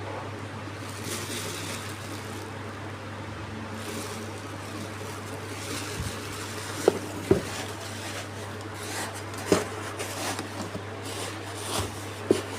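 Handling noises: rustling with a few sharp knocks or taps, over a steady low hum.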